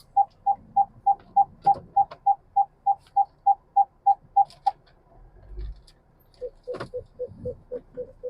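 Volvo S60's electronic cabin beeps: a run of short, even beeps about three a second that stops about two thirds of the way in, then after a pause a lower-pitched run of beeps a little faster, with a sharp click as it starts.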